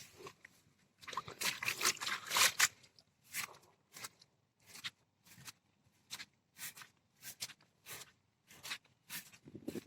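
Crunching footsteps on rough, dry ground, a quick cluster of steps and then an even walking pace of about two steps a second.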